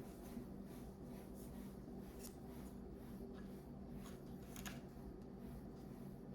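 Faint handling of small computer parts: light rustling and a couple of soft clicks over a steady low electrical hum.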